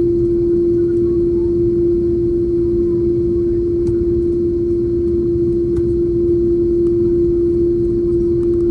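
Jet airliner cabin noise: a steady low rumble with one constant hum, unchanging throughout.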